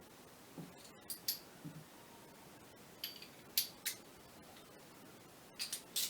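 Small sharp metallic clicks and taps from handling bolts and parts while assembling a clutch actuator, in three little clusters: two about a second in, three around the middle and three near the end.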